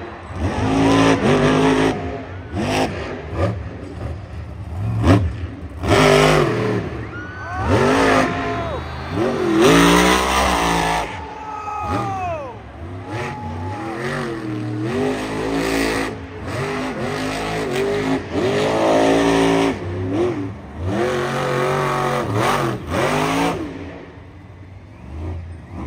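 Monster truck engine revving hard again and again, its pitch rising and falling with each blip of the throttle, quieter near the end.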